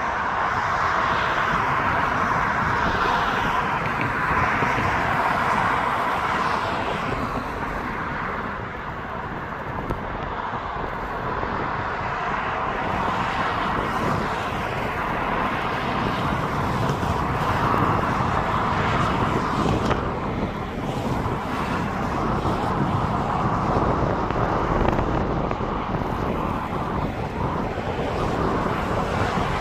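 ScotRail passenger train running at speed in high wind: a loud, steady rumble and rushing noise that swells and eases a little every few seconds.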